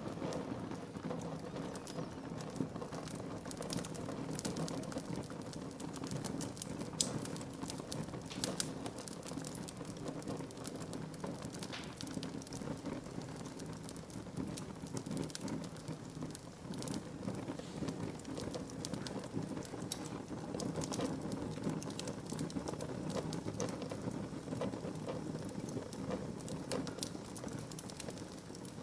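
Wood fire burning in a fireplace: a steady low rush with frequent sharp crackles and a few louder pops.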